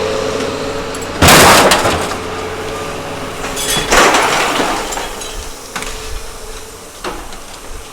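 Scrap being crushed by a truck's compactor: two loud crashes of breaking material, about a second in and about four seconds in, then a few lighter knocks, over the steady hum of the running machinery.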